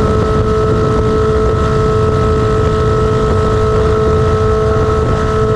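1999 Kawasaki ZR-7's air-cooled inline-four running steadily at constant revs, loud and raw because no exhaust muffler is fitted, with wind noise on the microphone.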